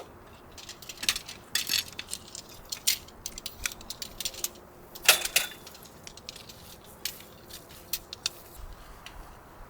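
Irregular light metallic clinking and jangling, with a louder clatter about five seconds in.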